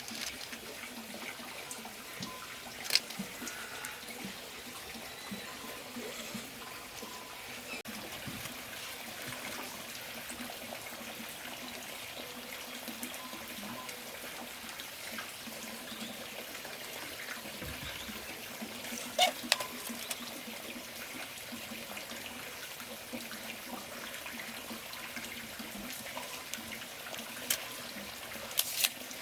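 Water running in a steady trickle, with a few sharp clicks or knocks: one about three seconds in, a pair around nineteen seconds and another near the end.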